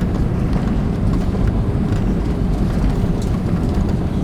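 Steady low rumble of an Airbus A320 on the ground after landing, heard from the rear of the passenger cabin.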